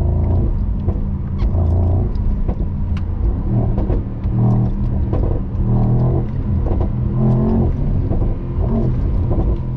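Mercedes-AMG SL55's 4.0-litre twin-turbo V8 running on the move, its pitch rising and falling several times.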